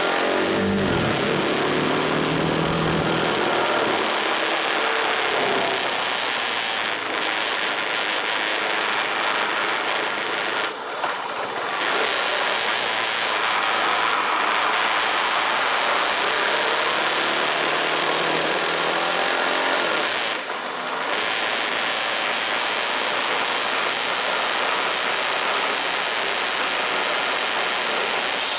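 A KTM RC 390 at speed on a motorway: a steady rush of wind and road noise over the camera microphone, with the bike's single-cylinder engine underneath. The engine pitch shifts in the first few seconds and again past the middle, and the rush drops briefly twice.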